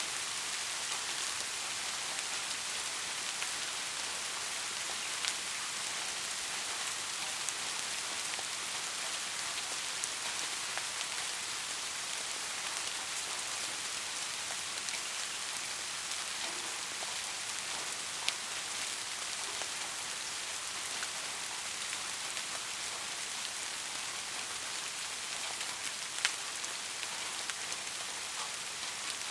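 Steady heavy rain, an even hiss of falling drops. Now and then a single sharper drop strikes close by, the loudest about three-quarters of the way through.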